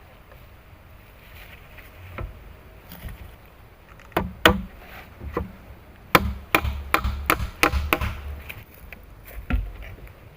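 Wood being chopped with a blade: about a dozen sharp strokes, starting around four seconds in, coming quickly for a couple of seconds, then one last blow near the end.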